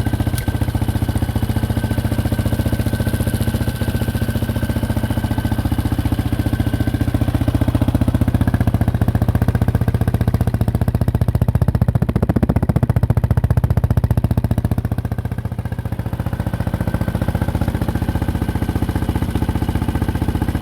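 Motorcycle engine idling steadily, with an even, rapid pulse and no revving.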